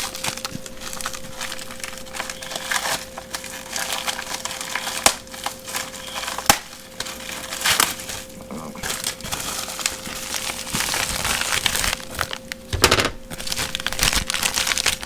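Packaging crinkling and rustling as small packs of camera mounts are handled and opened, with a few sharp clicks and a louder rustle near the end, over a faint steady hum.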